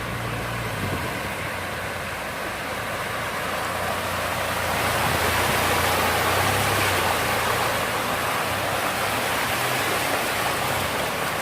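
Steady rushing of fast-flowing floodwater, swelling a little in the middle, with a low hum underneath.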